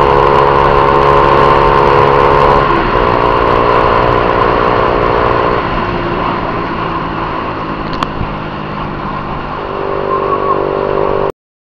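Honda CG 150 Titan's single-cylinder four-stroke engine running on the move: a steady note that eases off about two and a half seconds in, then picks up again near the end before the sound cuts off abruptly.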